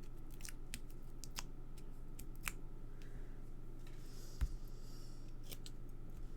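Scattered small crisp clicks and light rustling of paper and card pieces being handled and pressed down on a craft desk, with one soft tap about four seconds in.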